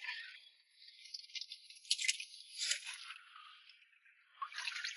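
Faint crackling and rattling with scattered sharp clicks: wet stones and gravel being shifted by hand while searching the bottom of a drained rock pool.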